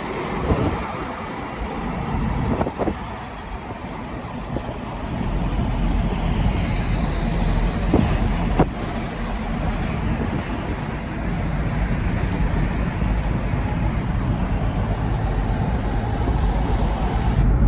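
Truck on the move: steady engine and road noise, with the low rumble growing heavier about five seconds in and two sharp knocks a little after the middle.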